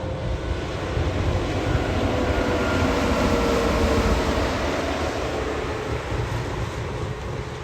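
Heavy truck driving past, its engine and tyre noise swelling to a peak about four seconds in and then fading, the pitch dropping slightly as it goes by.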